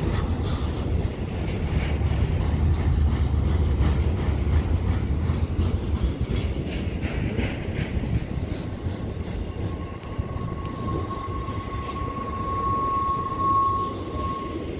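Freight train rolling past with a heavy low rumble and repeated wheel clicks, loudest in the first half. About halfway through a single steady high-pitched squeal sets in and grows louder, then stops just before the end.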